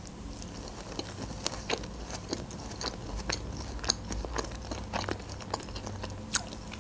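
A person chewing a mouthful of Caesar salad with lips closed: irregular small crisp crunches, a few a second.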